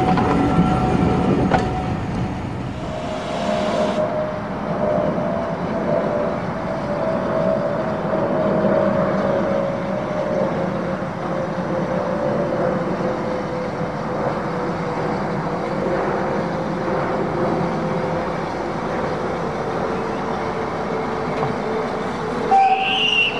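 Heritage railway train on the track: a carriage rolling past with wheel clatter, then a small steam tank locomotive coming slowly closer. Under it a long steady tone sinks slowly in pitch, and there are two short high squeals near the end.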